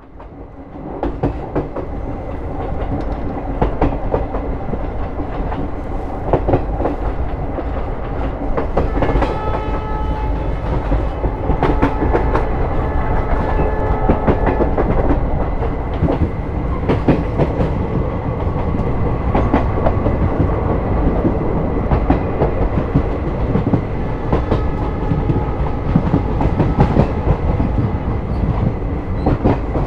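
Kanchanjunga Express passenger train running at speed, heard on board: a steady rumble with wheels clattering over the rail joints, and a high ringing tone for a few seconds around ten seconds in.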